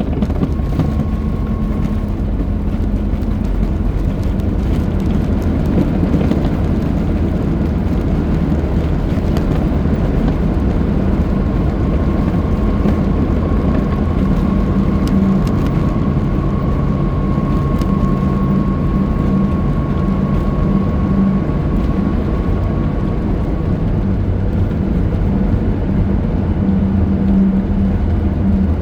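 Steady cabin noise inside a Boeing 737-9 MAX: air rushing past the fuselage and the low hum of its CFM LEAP-1B engines. A faint, steady whistle sits above it for a while in the middle.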